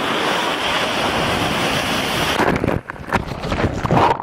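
Storm wind buffeting the microphone, a loud, steady rushing noise. It cuts off abruptly about two and a half seconds in, leaving quieter, scattered knocks and rustles.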